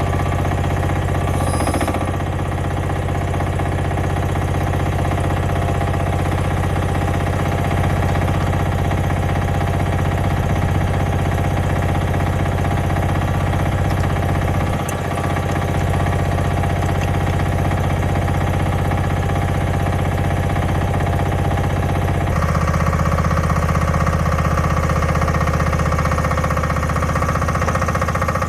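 A machine's engine or motor running steadily at a constant speed. Its tone changes about 22 seconds in, as if the load or speed shifts.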